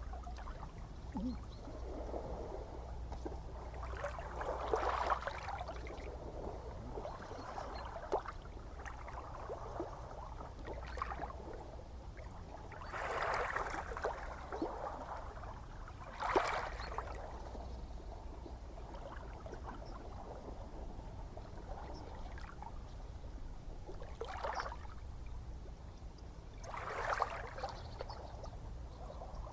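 Gentle sea waves lapping and splashing at the shore, with a louder slap every few seconds over a steady low rumble.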